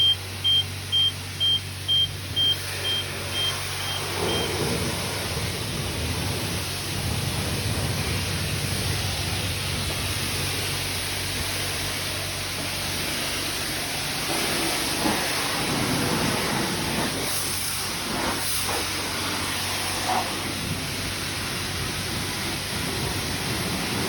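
Self-serve car wash timer beeping about twice a second for the first few seconds, warning that the paid time is nearly used up. Then a steady hiss of the high-pressure spray wand.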